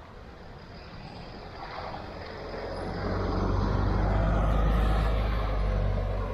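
A heavy road vehicle with a deep engine rumble passing by on the street, growing louder to a peak a little past the middle and then fading.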